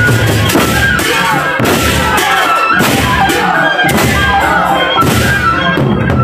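Gendang beleq ensemble playing: large Sasak barrel drums beaten in a driving rhythm under ringing cymbals, with a high, wavering melodic line on top.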